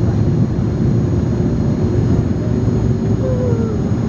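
Steady cabin noise of an Airbus A300 airliner in flight: a loud, even rumble of engines and airflow with a faint steady whine above it.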